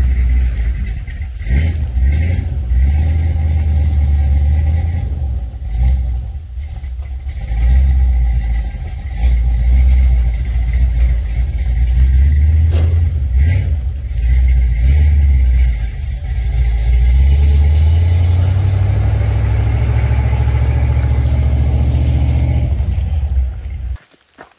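Pickup truck driving off, a steady low engine and road rumble that rises and falls in level, cutting off suddenly near the end.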